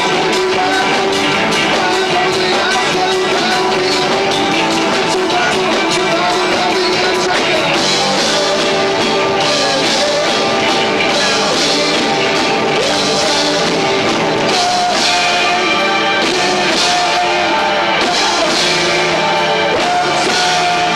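Live rock band playing loud, with electric guitar, drums and singing, recorded through a 1990s camcorder's built-in microphone, so the sound is low-fi. From about eight seconds in, the cymbals are hit thickly.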